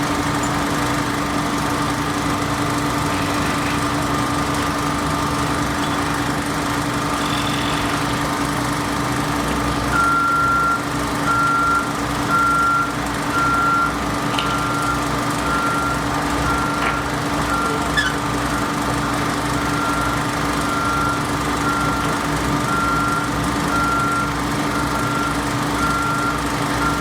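A construction machine's engine running steadily, and from about ten seconds in its back-up alarm beeping about once a second.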